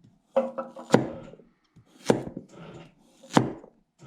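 A chef's knife cutting through a carrot and knocking onto the cutting board three times, each sharp knock coming after a short crunching rasp. The blade is the smooth-edged Rising Sun, which still needs pressure to get through the carrot.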